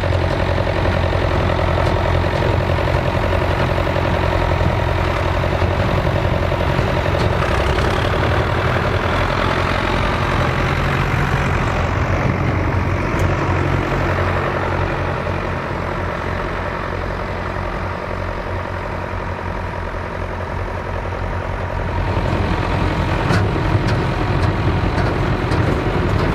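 Vintage farm tractor engine running steadily, easing off a little midway and then picking up again, with sharp clattering near the end.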